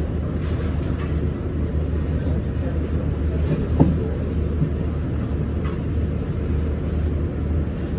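Steady low rumble, with one brief sharp clink about four seconds in.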